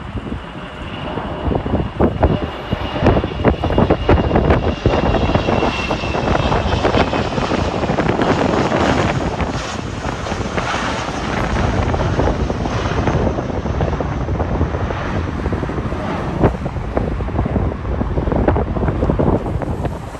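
Airliner's jet engines passing, a steady roar with a high whine that falls slightly in pitch over the first several seconds; the roar is loudest around the middle. Wind gusts buffet the microphone throughout.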